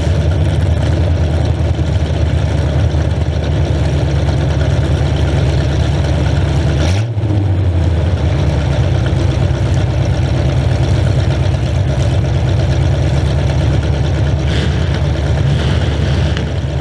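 Demolition derby car's engine idling loudly through open exhaust stacks poking up through the hood, a steady low rumble. About seven seconds in it drops out for a moment and picks up again with a short rise in pitch.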